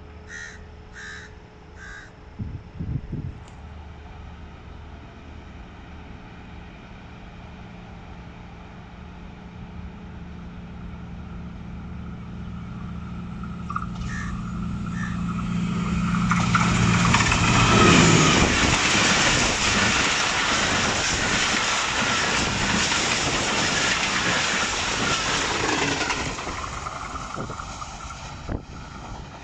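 A passenger train behind a Pakistan Railways ZCU-20 diesel locomotive runs through the station at speed. The engine drone grows steadily louder as it approaches. The train then passes with a loud rush of wheels on rail, loudest about 18 seconds in, and fades as it goes away. A few crow caws come near the start.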